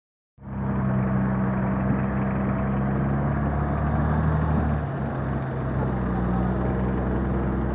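A motor vehicle engine running steadily at a low, even pitch, with road and outdoor noise; it cuts in abruptly just after the start.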